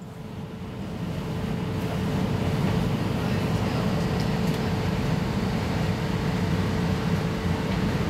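Steady running hum of a VR Sm2 electric commuter train's onboard equipment, heard inside the carriage while it stands at a platform, with a faint steady whine above it. The sound fades in over the first two seconds.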